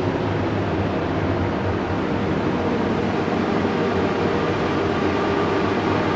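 Steady, unbroken engine drone of a four-engine propeller bomber in flight, a B-29 Superfortress, with a low hum under a wide rushing noise.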